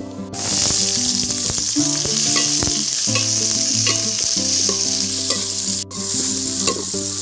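Chicken sizzling loudly in hot oil in a pan as it is stirred, the sizzle starting sharply about a third of a second in and breaking off for an instant near the end. Background music plays under it.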